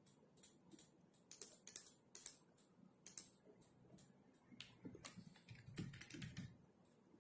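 Faint typing on a computer keyboard: irregular runs of key clicks, with a few heavier, duller keystrokes about five to six seconds in.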